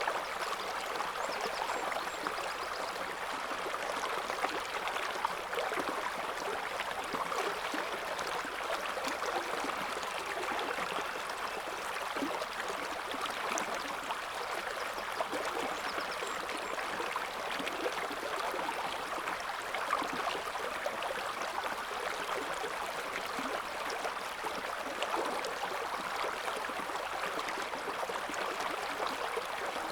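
A shallow river flowing steadily, the water gurgling and splashing over stones.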